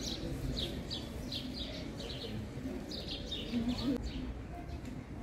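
Small birds chirping in quick, short, repeated calls, over a background murmur of people's voices.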